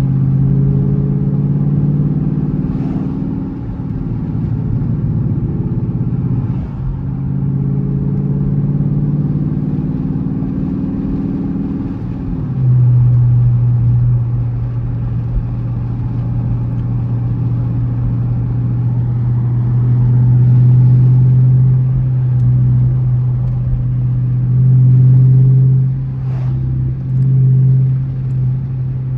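Dodge Charger R/T's V8 engine running on the road. Its note changes a few times in the first twelve seconds or so, then settles into a steady drone.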